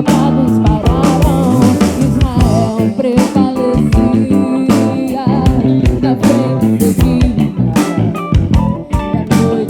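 Live band playing a full-ensemble passage: drum kit, bass, keyboards and a guitar-led melody with wavering, bending notes.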